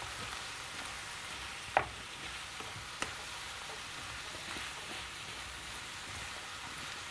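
Diced potatoes, carrots and onion sizzling as they fry in oil in a frying pan, stirred with a wooden spatula. The spatula knocks sharply against the pan about two seconds in, and once more, more lightly, a second later.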